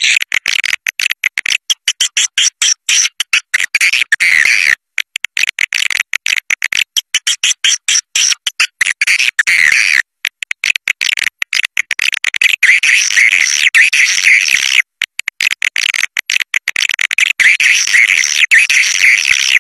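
Swiftlet calls: rapid, high chirping and twittering in quick runs broken by many short gaps and a few brief pauses, a swiftlet-caller recording of the kind played to lure swiftlets to a nesting house.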